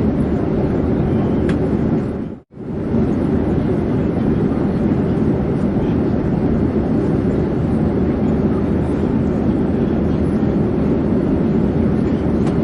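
Airplane in flight: a steady, loud, low rushing drone of engine and air noise. About two and a half seconds in it dips briefly to near silence and fades straight back up.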